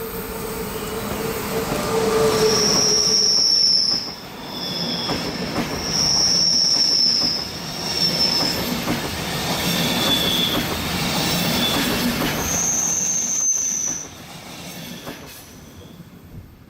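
A train passing, its wheels squealing in several held high-pitched spells over the rumble of the wagons. The sound falls away suddenly about fourteen seconds in, then fades out.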